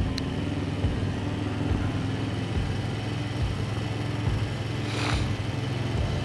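Motorcycle engine running steadily while riding along at an even speed. There is a brief rush of noise about five seconds in.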